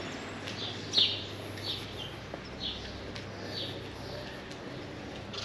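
Small birds chirping: short high calls repeated about once a second, the loudest about a second in, over a low steady hum of street ambience.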